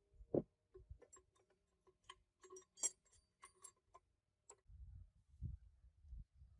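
Faint, irregular light clicks and taps from parts being handled, with a sharper click about three seconds in, then a few soft low thuds near the end.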